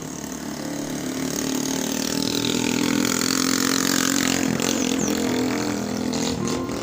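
A motor vehicle's engine running with a steady hum, swelling louder toward the middle and easing off near the end.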